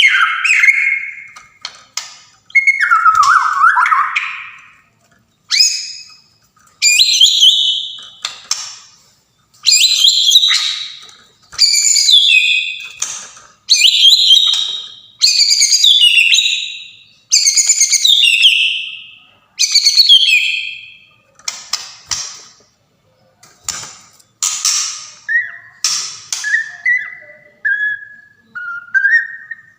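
White-rumped shama (Sumatran murai batu) singing: a run of loud, rich whistled phrases, each about a second long, repeated roughly every one and a half seconds. Near the end the song gives way to quieter, lower whistled notes that step up and down in pitch.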